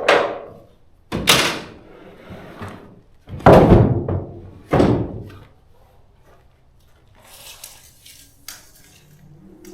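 Four heavy thunks over about five seconds, the loudest about three and a half seconds in, followed by quieter rustling and a few light knocks.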